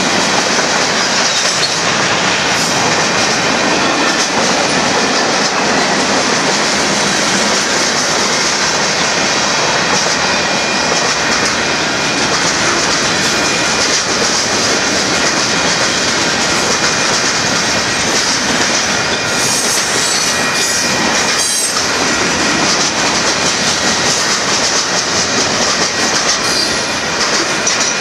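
Freight cars of a Union Pacific manifest train rolling past close by: loud, steady noise of steel wheels running on the rails, with a thin wheel squeal held underneath.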